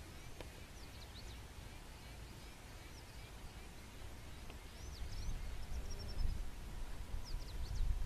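Birds chirping in short, high calls, some rising and some falling, scattered throughout, over a low rumble that grows louder in the second half.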